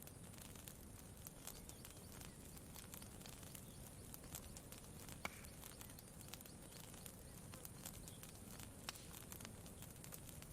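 Faint campfire crackling: scattered small pops and snaps over a low, steady background hiss, with one sharper pop about five seconds in.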